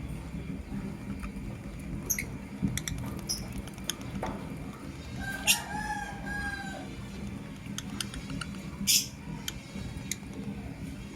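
Lovebirds chirping in short, sharp, high-pitched calls, with two loud shrill shrieks, the first about halfway through and the second near the end. A longer, lower drawn-out call, like a rooster crowing, runs for about a second and a half around the middle.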